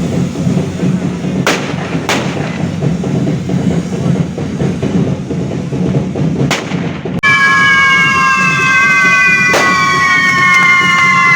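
Fireworks going off: a low rumble with a few sharp bangs. About seven seconds in the sound changes abruptly to a loud, high, several-toned whistle gliding slowly down in pitch, with more bangs on top.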